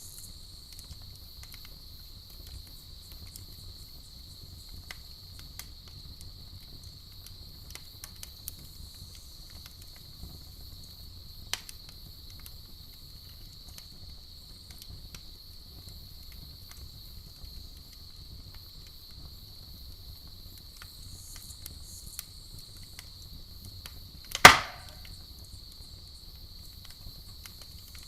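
Campfire burning with sparse soft crackles and small pops from the wood, and one loud sharp pop near the end. Underneath, crickets chirr steadily in a high, even drone.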